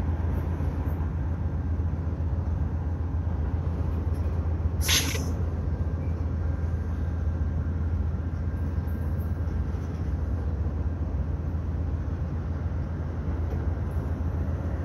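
Freight train of covered hopper cars rolling past, a steady low rumble of wheels on rail. A brief, sharp, high-pitched noise about five seconds in.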